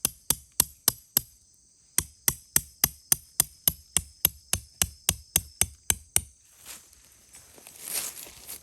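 A run of sharp, evenly spaced striking blows, about three or four a second, pausing briefly about a second in and stopping near the end, where a rustling scrape takes over. A steady high insect chorus sounds behind.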